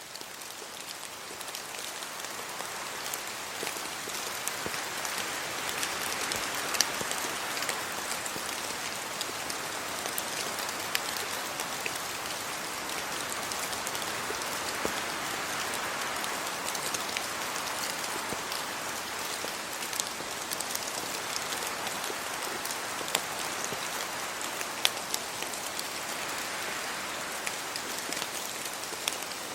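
Steady rain falling on tree leaves and a road, a dense hiss full of tiny drop ticks, swelling and easing slowly every several seconds. It fades up over the first couple of seconds.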